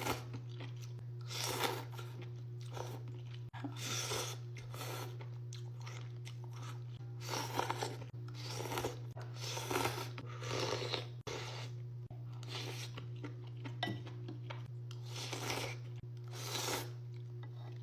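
Crunchy food being bitten and chewed close to the microphone, in irregular crunches every second or two, over a steady low hum.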